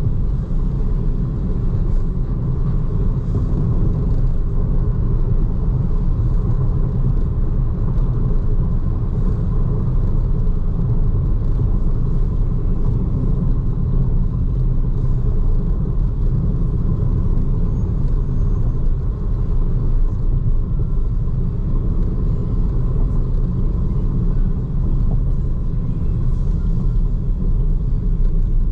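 BYD Seagull electric hatchback driving, with a steady low rumble of road and tyre noise and no engine note.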